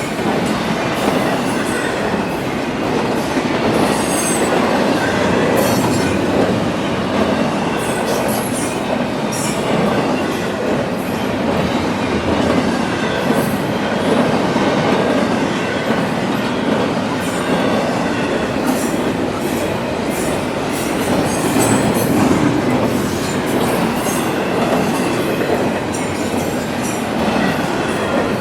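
CSX freight train's cars rolling by: a steady rumble of steel wheels on rail, with brief high wheel squeals now and then.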